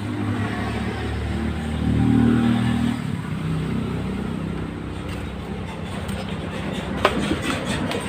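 A motor vehicle engine running, swelling to its loudest about two seconds in and then easing off, with a few sharp clicks near the end.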